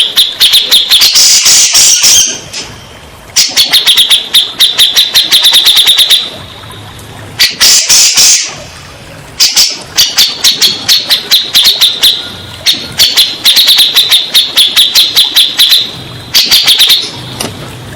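Cucak jenggot (grey-cheeked bulbul) song, used as a therapy recording to get caged birds to answer. It is a loud, fast chatter of sharp repeated notes in bursts of a few seconds, with short pauses between the bursts.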